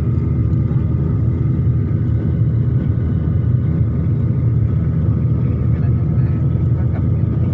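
Steady low rumble of vehicle noise, even throughout.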